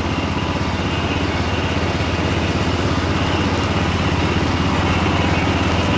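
Garden tractor's small engine running steadily as it drives along a trail.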